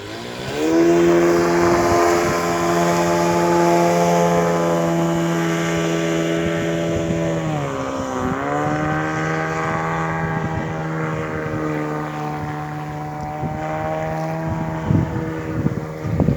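Mercury 25 Jet water-jet outboard motor running at speed. It revs up in the first second and holds a steady, high pitch. About eight seconds in, the pitch dips briefly as the throttle is eased, then comes back and holds a little lower, with a few thumps near the end.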